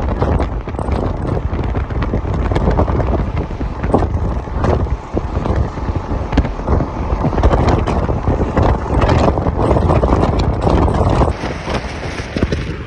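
A vehicle on the move with a steady rumble, wind buffeting the microphone, and many irregular knocks and rattles throughout.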